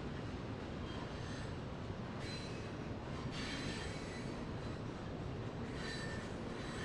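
A train rolling on the rails with a steady low rumble, its wheels squealing in several high-pitched bursts over a few seconds.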